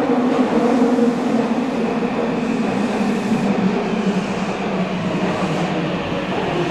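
Meitetsu electric train moving through an underground station platform: a steady rumble of wheels on rail with a level motor hum.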